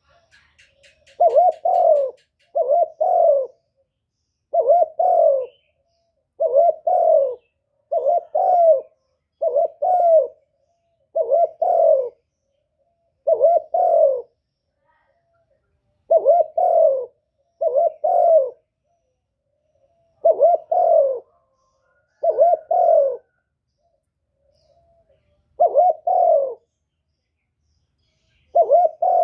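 A bird of the pigeon family cooing: a long series of short, low coos, each with a doubled note, about one every one and a half to two seconds with a few longer pauses.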